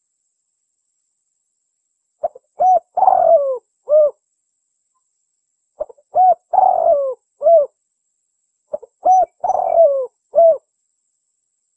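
Spotted dove (tekukur) cooing: three phrases a few seconds apart. Each is a couple of short notes, a longer falling coo, then a last clipped coo. This is the recorded call of a contest male, used as a lure to draw wild doves.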